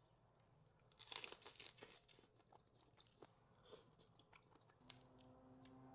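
Close-up eating sounds as a lobster claw is bitten into: a run of crackling crunches about a second in, then softer scattered chewing clicks. A faint steady hum comes in near the end.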